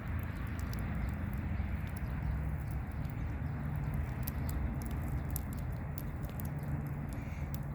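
Campfire of burning twigs and sticks crackling, with frequent sharp snaps and pops at irregular intervals.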